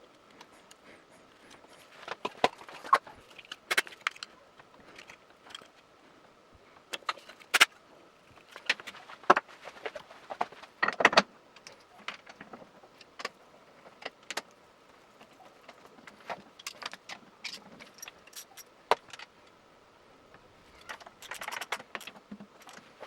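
Irregular metallic clinks and clicks of hand tools and metal parts being handled while a motorcycle handlebar is swapped, with a cluster of knocks about ten seconds in and more near the end, over a faint steady hum.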